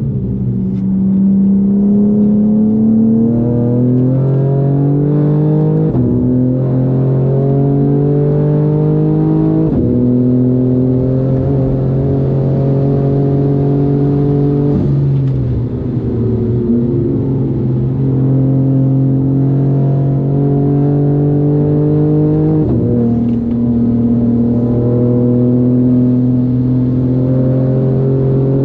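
BMW M4 G82's twin-turbo inline-six, tuned to about 630 wheel horsepower, under hard acceleration on a track lap. Its pitch climbs through each gear and drops sharply at each upshift, about five times. Around the middle the revs fall away under braking, then climb again.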